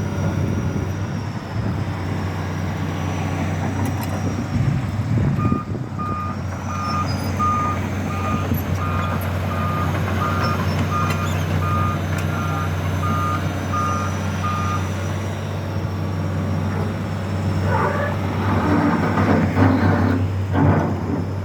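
Diesel engine of a heavy construction machine running steadily, with its back-up alarm beeping at a regular pace, a little under two beeps a second, for about ten seconds from a quarter of the way in. Near the end there is a run of knocks.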